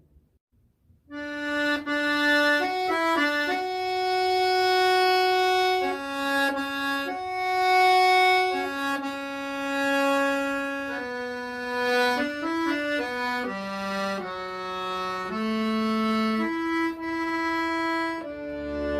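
Accordion playing a slow melody of held notes, starting about a second in after a brief silence.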